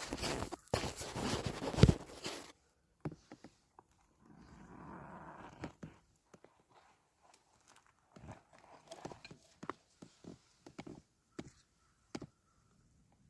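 Rustling and handling noise close to the microphone, loudest in the first couple of seconds with one sharp knock near the end of that stretch, followed by a short hiss and scattered light clicks and knocks.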